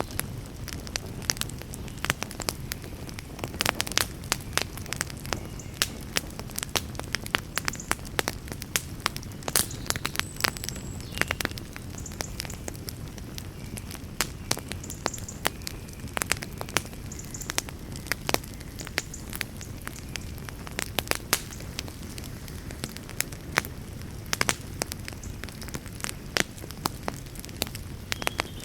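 Campfire crackling: frequent sharp snaps and pops, several a second, over a steady low rush of burning wood.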